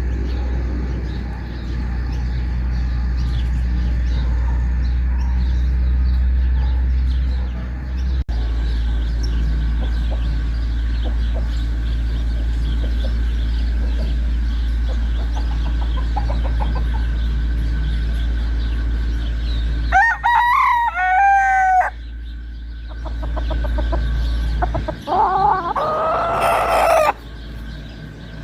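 Chickens clucking over a steady low rumble, then a rooster crowing twice: once about two-thirds of the way through and again near the end.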